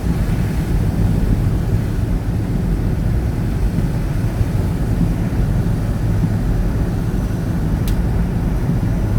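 Steady low rumble of a car driving along a highway, engine and tyres, with a single short click near the end.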